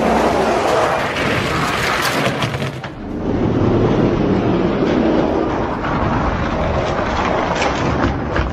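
Two Hot Wheels die-cast monster trucks rolling fast down a drag-strip track, a loud steady rumble of their wheels on the track that dips briefly about three seconds in.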